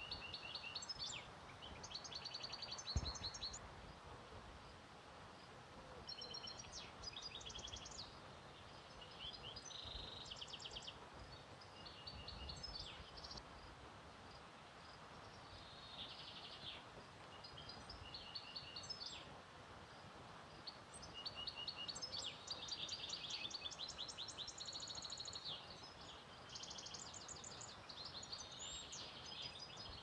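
Songbirds singing faintly, short phrases of quick repeated high notes every second or two, over a soft steady background hiss. A single soft knock about three seconds in.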